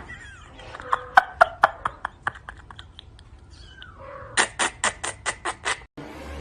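A cat making runs of rapid clicking calls. A first burst spaces out and fades, and then comes an even run of about eight clicks at some six a second.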